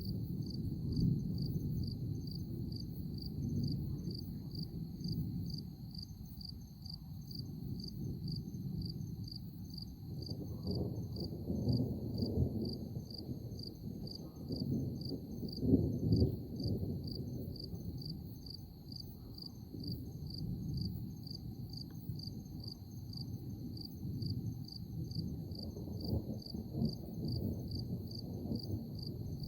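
Thunder rumbling low, swelling and fading, with its loudest roll about sixteen seconds in. Over it, insects chirp in a steady, evenly spaced rhythm.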